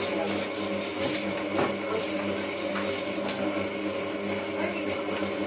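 Hotpoint 9534A washing machine running mid-wash, its drum motor giving a steady hum of several tones over light, evenly repeating clicks.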